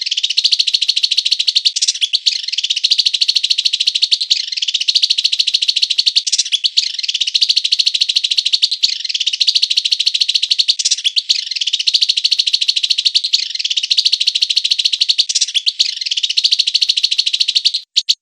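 A songbird's rapid, unbroken chattering trill, high-pitched and dense, with the same phrase coming round about every two seconds. It stops suddenly near the end, with a few separate chips after it, as in an edited masteran training recording.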